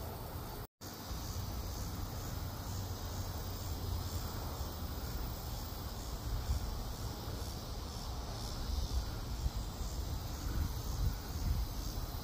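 Crickets chirping in a steady, evenly pulsing chorus over a low rumble.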